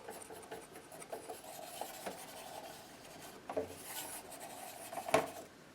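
Painting knife scraping and dabbing paint across the painting surface in faint rasping strokes, with a few sharper strokes in the second half.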